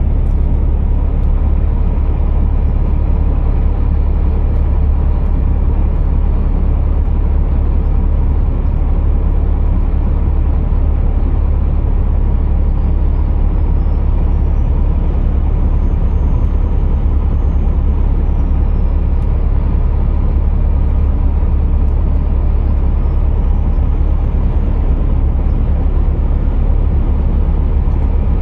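Scania R480 heavy truck running with a steady, deep rumble. A faint high whine rises and falls twice.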